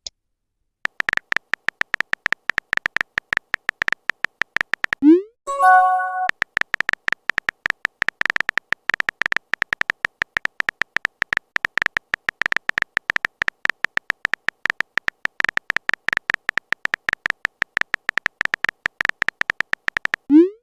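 Rapid, irregular stream of short electronic beeps, all at one pitch, like the letter-by-letter typing sound effect of an animated text-message chat. About five seconds in, it is broken by a rising swoop and a short chime like a message alert, and the swoop and chime come again at the very end.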